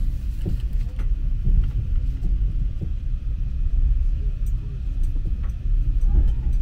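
Low, steady rumble of a moving passenger train, with a few faint clicks.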